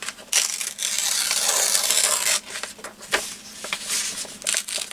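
Paper being rubbed and rasped at the edge of a collage page as excess is worked off, a dry scratchy sound in two long strokes of about two seconds each.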